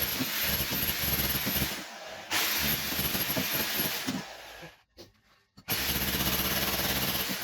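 Electric demolition hammer chiselling old ceramic tiles off a kitchen wall, running in three bursts with a short stop about two seconds in and a longer one about five seconds in.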